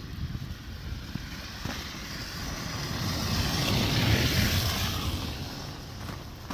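A car driving past, its tyre and engine noise growing to a peak about four seconds in and then fading away.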